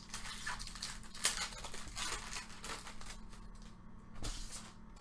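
Crinkling and rustling of trading-card packs and cards being handled and torn open, in irregular bursts that are loudest about a second in and die down after about three seconds.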